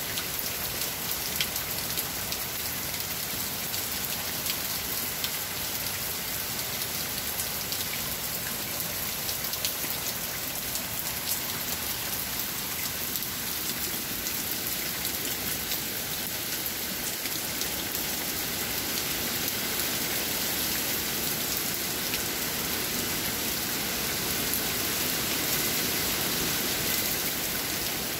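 Heavy hurricane rain pouring steadily, with scattered drops ticking and dripping off the edge of a porch roof. It grows a little louder in the last third.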